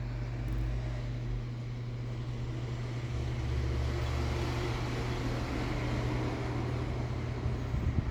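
Britânia Ventus Protect 40 desk fan running: a steady low motor hum under the rush of air from the blades, the rush growing fuller a few seconds in. A short knock comes right at the end.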